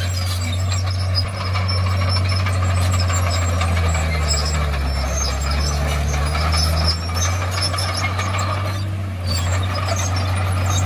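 Heavy diesel engine of a Komatsu crawler bulldozer running steadily at work, its pitch rising briefly about halfway through and then settling back, with a noisy mechanical clatter over it.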